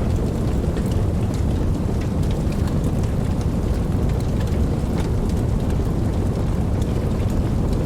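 Steady rain, a dense low rushing with many small drop ticks scattered through it.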